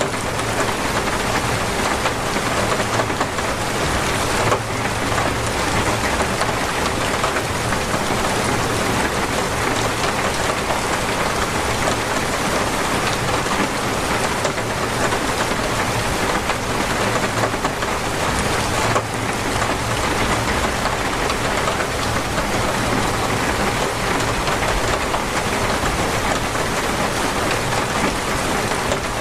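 Torrential rain falling steadily: a dense, even hiss of heavy rain.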